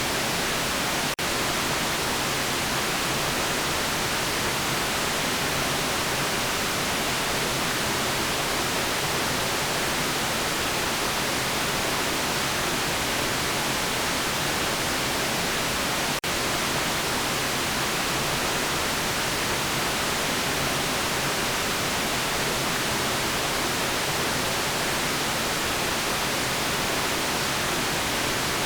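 Steady white noise, an even hiss across the range, with two momentary dropouts, one about a second in and one about halfway through.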